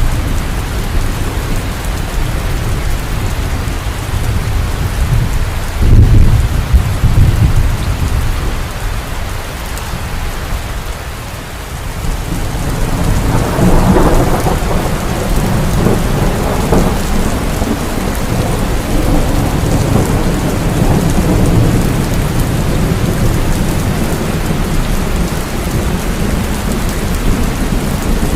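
Heavy rain falling steadily through a thunderstorm. A sudden loud thunderclap comes about six seconds in and rumbles for a few seconds. After a brief lull, a long rolling peal of thunder builds from about halfway and carries on to the end.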